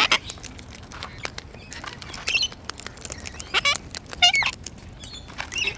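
Wild parrots at close range making short squeaky, warbling calls in several bursts, loudest a little after halfway, over frequent sharp clicks and taps.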